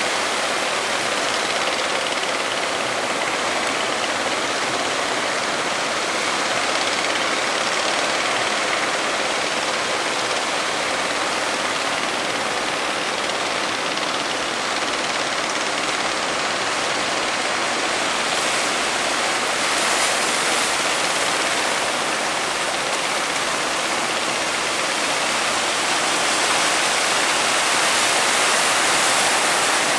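Steady rushing noise of surf breaking at a river-mouth sandbar, getting a little louder after about 18 seconds and again near the end.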